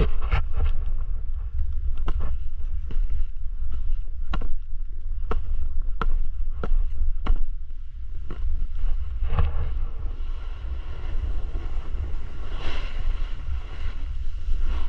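Wind buffeting the microphone with a steady low rumble, over regular footfalls knocking a little more than once a second. A breathier rush swells near the end.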